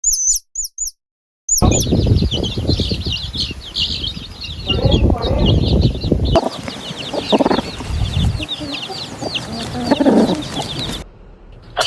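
A brood of domestic chicks peeping: rapid, high, shrill chirps from many birds at once over a low scuffling and rustling. This follows a few short high chirps in the first second and a brief silence.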